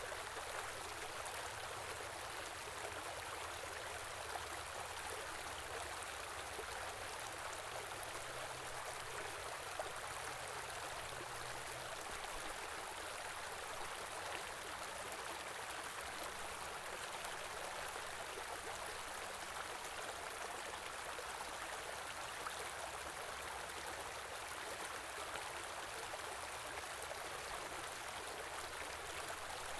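A small river running over rocks: a steady rush of flowing water.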